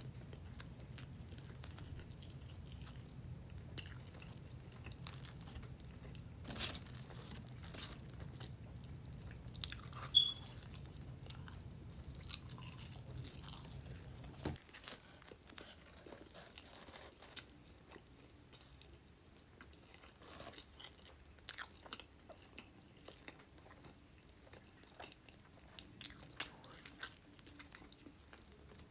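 Close-mic eating sounds of Wendy's fast food: a person biting and chewing, with scattered crunches and mouth clicks and one sharp crack about ten seconds in. A low steady hum underneath cuts off about halfway through.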